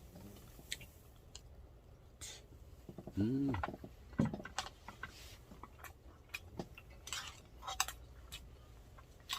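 Eating utensils clicking and scraping against a rice bowl and dishes during a meal: scattered light clicks, with a short voice sound about three seconds in.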